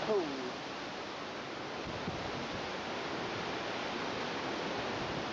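Hurricane wind blowing hard and steadily outdoors, a continuous rushing noise.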